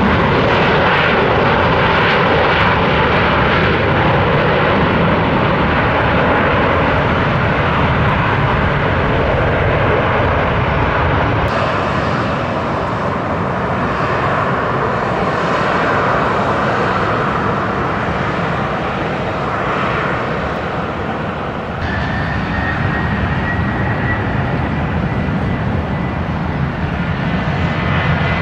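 Airliner engines running loud and steady on the runway, a dense roar that shifts abruptly twice. In the last third a thin whine rises slightly above the roar.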